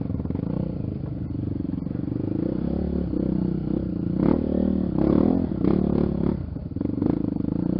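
Honda XR Tornado trail motorcycle's single-cylinder engine running under varying throttle. The engine note rises and falls, with several short, louder revs past the middle.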